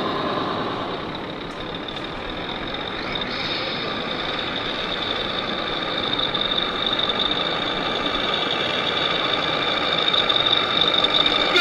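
Radio-controlled model truck running, with engine noise and a steady high-pitched tone that sets in about a second and a half in and holds to the end.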